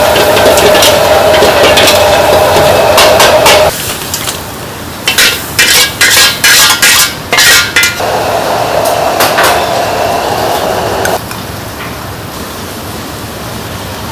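Kitchen clatter: utensils and cookware knocking and clinking, with a burst of sharp knocks in the middle. A steady rushing noise runs under it, stops, comes back for a few seconds, then drops away.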